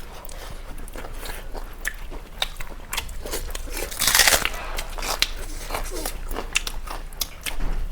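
Close-up eating sounds: chewing with many small crackling clicks, and one loud crunch about four seconds in.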